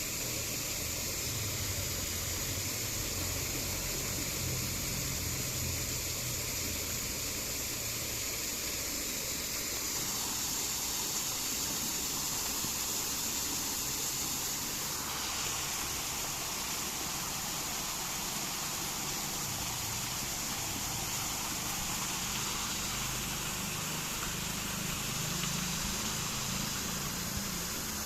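Steady rushing of flowing water, an even hiss with no breaks; its tone shifts slightly about ten seconds in and again about fifteen seconds in.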